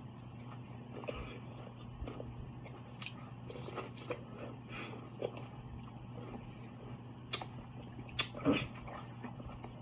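Close-up mouth sounds of someone eating seafood: chewing and biting, with scattered small clicks and cracks, over a faint steady hum.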